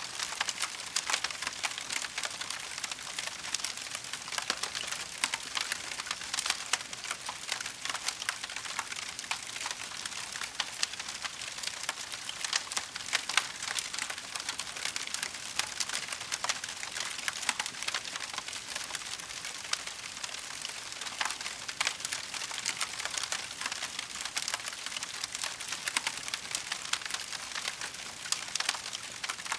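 Wood fire crackling steadily: a dense, continuous run of small pops and snaps over a soft hiss.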